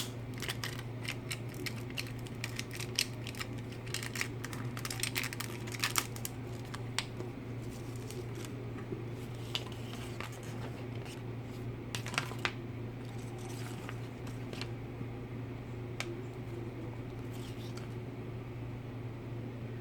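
Small plastic toy pieces and their packaging being handled: quick clicks and crinkly rustling, busiest in the first several seconds, then only an occasional click, over a steady low hum.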